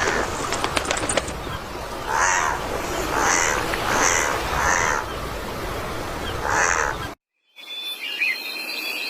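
A bird giving harsh, cawing calls, five in all spaced about a second apart, over a steady background hiss. The sound breaks off near the end and gives way to a different bird's higher, whistled calls.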